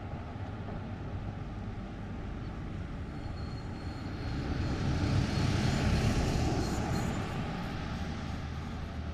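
A road vehicle passing by: its engine and tyre noise build up, peak about five to seven seconds in, then fade away.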